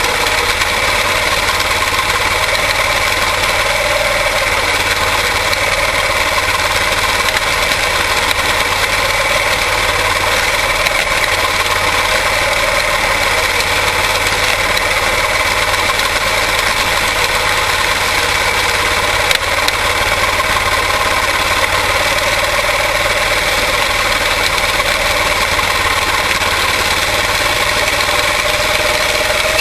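Single-cylinder Briggs & Stratton Animal engines of quarter midget race cars running steadily at racing speed, the pitch wavering only slightly. There is a brief click about 19 seconds in.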